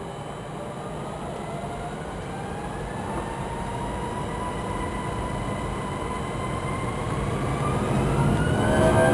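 Airbus A320's jet engines spooling up for takeoff, heard from inside the cabin: a whine that rises in pitch and grows steadily louder, swelling sharply near the end as takeoff thrust is reached.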